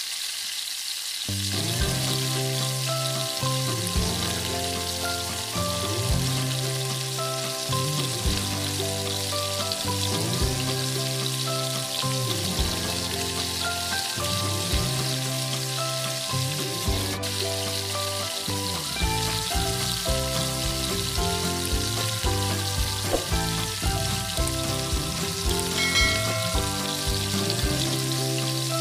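Bread-crumbed chicken pieces sizzling as they deep-fry in hot oil, a steady hiss throughout. Background music plays under it.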